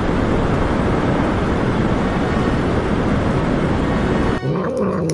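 Steady, loud rushing noise with no clear pitch, cutting off abruptly about four and a half seconds in.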